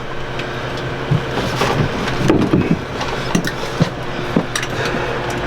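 Scattered small clicks and knocks of hands handling hose and fittings, over a steady low hum.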